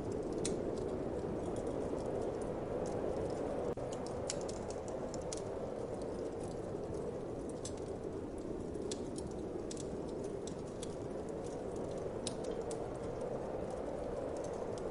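Wood fire crackling, with irregular sharp pops and ticks, over a steady whoosh of wind.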